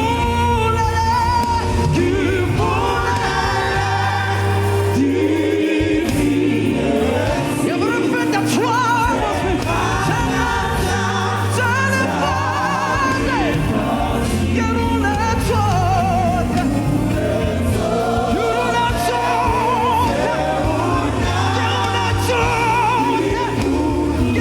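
Gospel choir singing over a live band, the voices wavering with vibrato above a steady bass.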